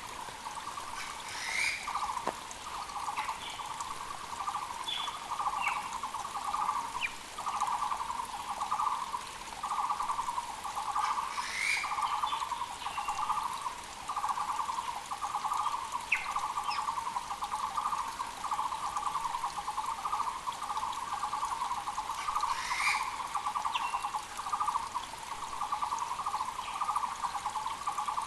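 Taiwan barbets calling nonstop: a fast, steady run of repeated notes in overlapping phrases, the loudest sound throughout. Other birds add short chirps, and a rising call comes three times, about ten seconds apart, over the faint hiss of a mountain creek.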